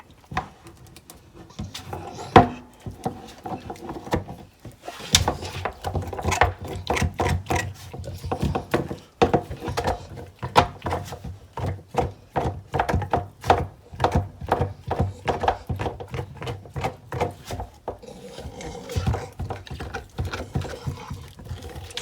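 An American Bully dog crunching and gnawing on a deer bone, making rapid cracking crunches. They start sparse with one sharp crack, then come dense and continuous through most of the stretch before easing off near the end.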